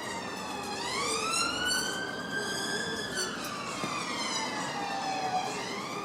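A siren wailing: one slow rise in pitch, a long fall, and the start of the next rise near the end.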